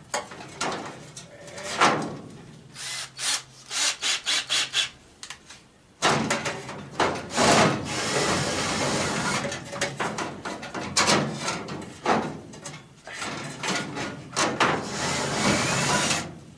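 A handheld power tool working on a furnace's sheet-metal housing: a few short trigger bursts, then a long run of about ten seconds.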